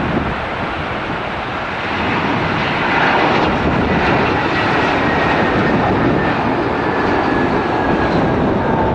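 Airbus A320-232 jet engines (IAE V2500) of an airliner landing, a steady jet rush that swells about two seconds in, with a faint whine that slowly falls in pitch as the aircraft passes.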